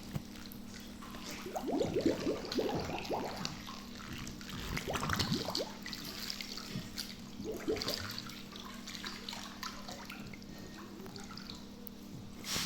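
Water gurgling and bubbling in bursts as air is pushed out of a pool vacuum hose held under the water, the hose filling so the vacuum can draw. A faint steady hum runs underneath.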